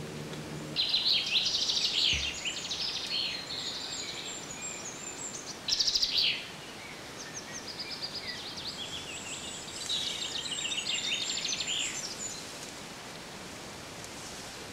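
Songbirds singing in repeated phrases of quick chirps and trills over a steady background hiss, the loudest a short burst about six seconds in. A low held tone cuts off under a second in.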